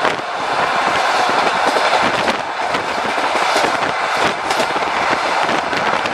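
Passenger train's wheels running over the rails of a railway bridge: a steady, loud rumble with scattered clicks and knocks.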